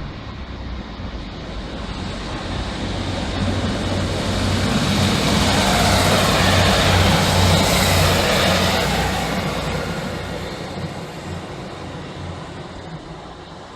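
Two-car class 156 diesel multiple unit departing and passing close by. Its diesel engines and wheel-on-rail noise build up to a peak about halfway through, then fade as it pulls away.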